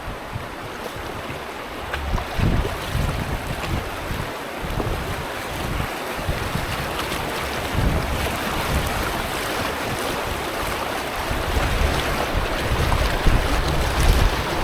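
River water rushing around a canoe moving downstream, with wind buffeting the microphone in uneven low gusts.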